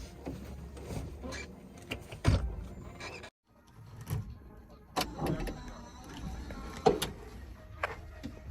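A heavy machine's diesel engine running at a steady low rumble, with a few sharp, loud knocks of metal on rock spread through it. The sound cuts out abruptly for a moment about three seconds in.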